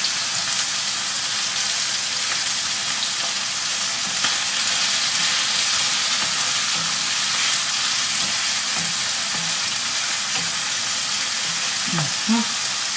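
Potato pieces deep-frying in a large pan of oil: a steady crackling sizzle. A wooden spoon stirs prawns sizzling in a second frying pan.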